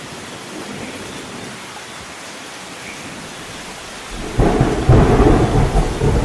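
Steady heavy rain hissing, then about four seconds in a loud low rumble of thunder breaks in and keeps rolling through the end.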